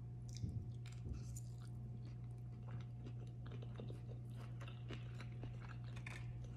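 Close-miked chewing of a mouthful of a rice and chicken bowl: irregular soft wet clicks and small crunches, over a steady low hum.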